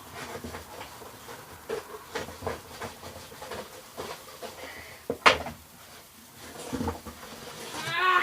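Irregular clicks, knocks and scrapes of plastic being handled and cut by hand, with one sharp snap about five seconds in and a short squeal near the end.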